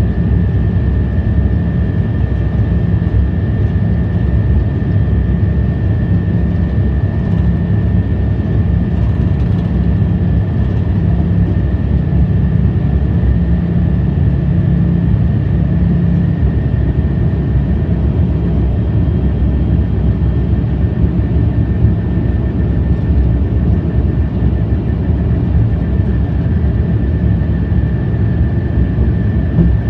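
High-speed train running at speed, heard from the front cab: a steady, loud rumble and rush with a thin, high whine held throughout. A lower hum in the rumble fades just past halfway.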